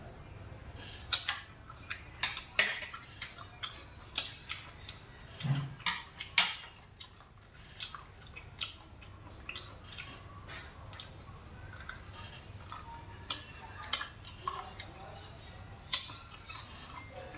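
Close-miked eating sounds: a string of sharp wet smacks and clicks from chewing pork hock, thick over the first six seconds and sparser after.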